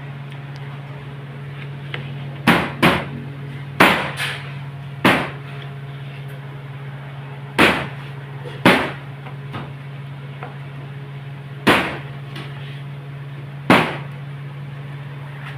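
About nine sharp knocks at irregular intervals, some in quick pairs, over a steady low hum.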